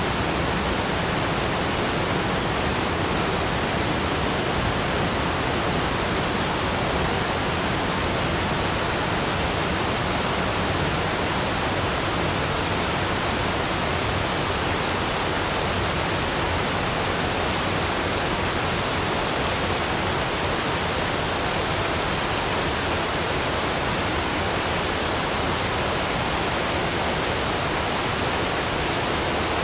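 Waterfall rushing: a steady, unbroken wash of falling water with no pauses or changes.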